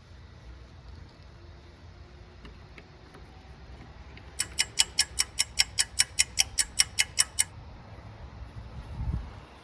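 A screwdriving tool clicking as a screw is driven tight: a run of about sixteen sharp, evenly spaced clicks, about five a second, lasting some three seconds. A dull thump follows near the end.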